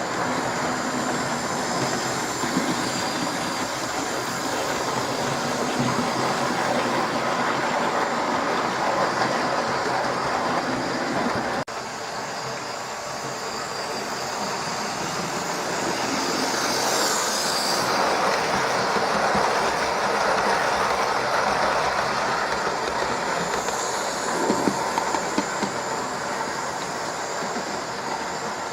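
Hornby model train running around its track: a steady whirr of the small electric motor and wheels on the rails, changing abruptly about twelve seconds in, with a few sharp clicks late on.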